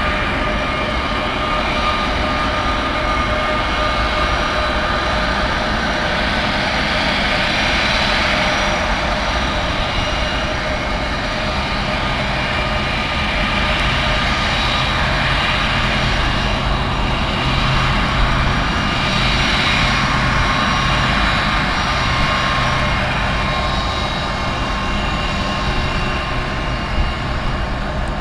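Boeing 757's twin jet engines running steadily, a continuous rush of noise with a high steady whine.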